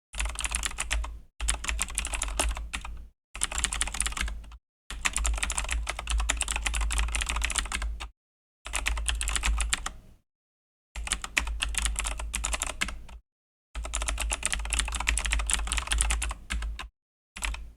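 Fast typing on a Razer BlackWidow V3 mechanical keyboard with Razer Green clicky switches: dense runs of key clicks lasting one to three seconds, broken by brief silent pauses about seven times.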